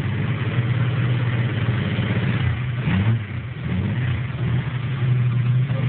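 Chevrolet Opala's modified engine, fitted with six-throat carburetion and spider headers, running with a strong rumble, with a short rev about three seconds in.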